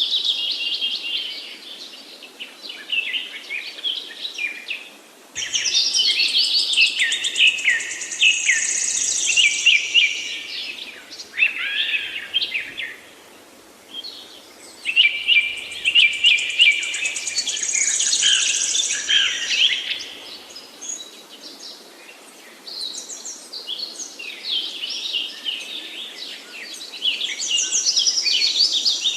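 Songbirds singing in long phrases of rapid, varied notes and trills, several seconds each, with short gaps between them.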